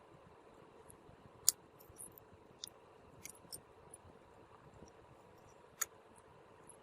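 A few sharp clicks and light taps, likely small tools and parts being handled. The loudest click comes about one and a half seconds in, with another near the end and smaller ticks between, over a steady low hiss.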